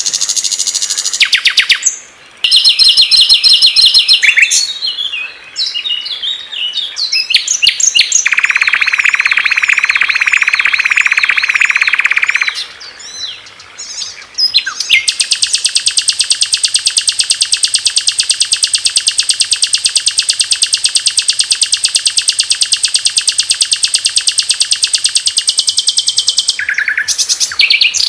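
Small songbirds singing, one recorded song after another: short trills and varied chirping phrases, then a buzzy, wavering song, then a long, very rapid, even trill that runs for about eleven seconds before cutting off.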